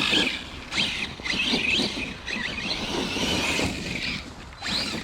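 Arrma Kraton 6S RC truck's brushless electric motor whining, its pitch rising and falling repeatedly with the throttle, over a hiss of tyres churning through wet grass.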